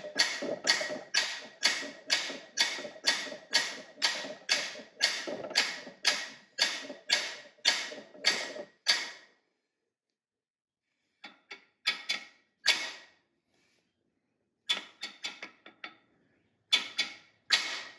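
A hammer tapping on the driver bar of a cam bearing installation tool, pressing a new cam bearing into a small block Ford engine block. Steady ringing taps come about two to three a second for roughly nine seconds, then stop; after a pause, a few scattered taps follow.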